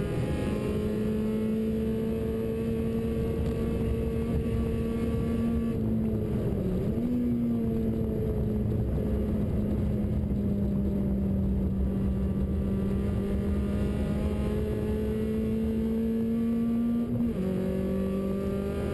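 Citroën Saxo VTS's four-cylinder engine heard from inside the cabin, pulling at high revs under load with a steady note that climbs slowly. About six seconds in the pitch briefly dips and wobbles before settling, and near the end it drops sharply at an upshift.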